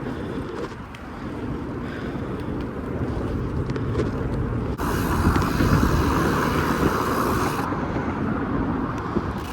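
Wind rumbling on a chest-mounted microphone while riding a bicycle. About five seconds in, a steady hiss starts suddenly and stops just as suddenly about three seconds later.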